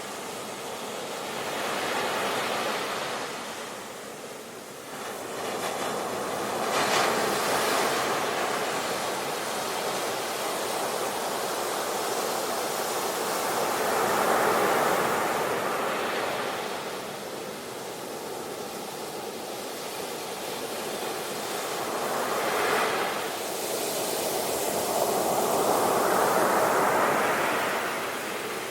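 Ocean waves breaking on a shore, the surf swelling and easing every few seconds, with a sharper crash about seven seconds in and a long swell near the end.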